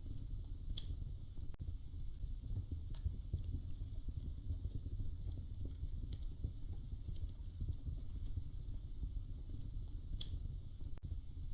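Wood fire burning in a fireplace: a steady low rumble with scattered sharp crackles and pops, the loudest pops about a second in and near the end.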